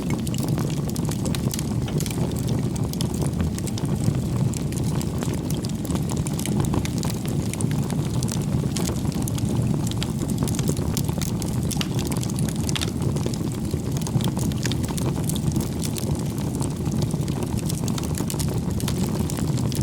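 Campfire of burning wood logs: a steady low roar of flame with frequent sharp crackles and pops from the burning wood.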